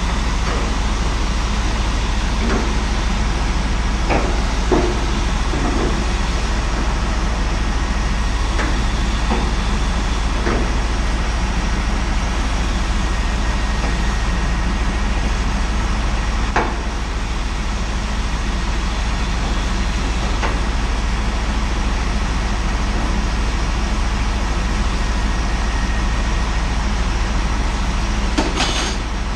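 Truck-mounted mobile steam unit (PPUA) running while steaming out a fuel tank: a steady low hum under a continuous even hiss, with a few short knocks scattered through.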